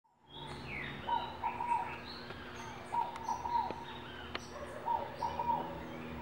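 Several birds singing and chirping. One repeats a short phrase of quick chirps about every two seconds, with higher, thinner chirps throughout.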